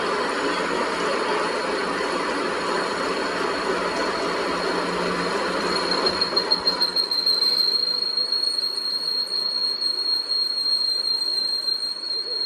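Metalworking noise from a machine shop: a harsh rough noise, then about six seconds in a steady high-pitched squeal takes over, the sound of metal being cut or ground.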